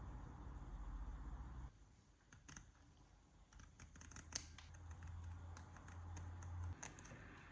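A run of light sharp clicks and ticks from small parts being handled during work on a model car, over a low hum that drops out about two seconds in and comes back.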